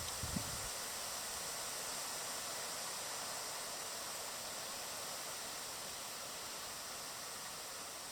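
Steady outdoor background hiss at a bird feeder, even and unbroken, with no bird calls standing out. There is a faint low knock just after the start.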